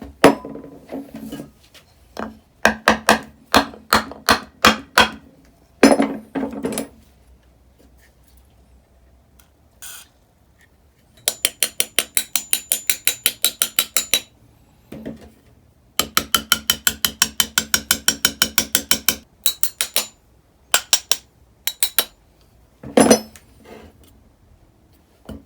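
Metal hand tools knocking and clicking on a Honda XR250L cylinder head as the last intake valve is worked out. There are scattered sharp taps, then two runs of rapid, even ratchet-like clicking, about ten a second, each lasting about three seconds.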